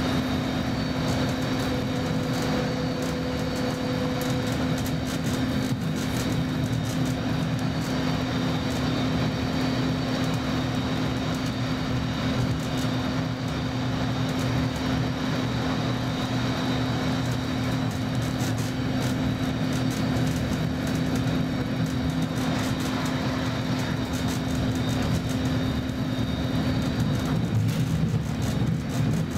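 Interior noise of a Roslagsbanan X10p electric multiple unit on the move: a steady low drone of running gear on the rails with a constant hum and a faint high-pitched whine. A short extra tone sounds in the first few seconds.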